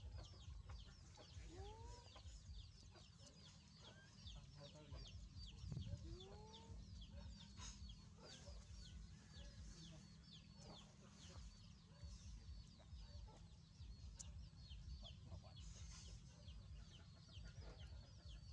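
Faint bird calls: a steady run of quick high chirps several times a second, with occasional lower chicken-like clucks, over a low rumble.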